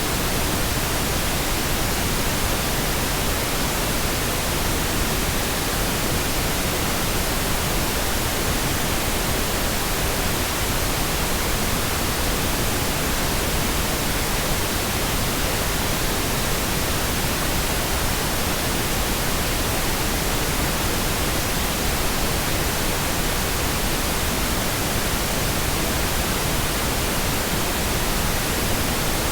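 Pink noise: a steady, even hiss spread across the whole range of pitch, unchanging throughout.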